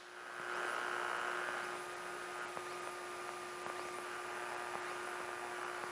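Steady electrical hum and hiss on the aircraft's intercom audio feed, with one low tone held unchanged throughout.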